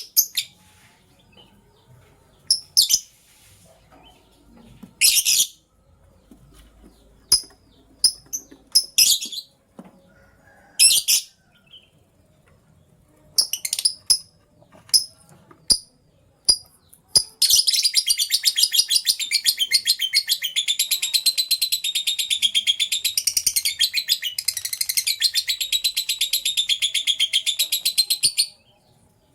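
Lovebirds chirping: short, sharp, high chirps on and off, then about 17 seconds in a long, rapid, warbling chatter that runs for about ten seconds and stops abruptly.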